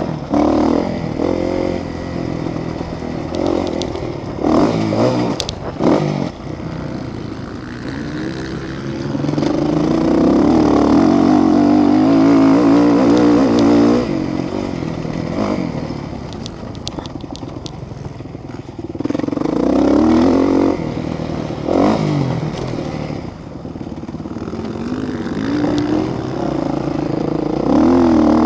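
Motocross motorcycles racing past, engines revving up and down as they accelerate and shift. The loudest pass comes about ten seconds in and lasts several seconds, with more passes around twenty seconds and near the end.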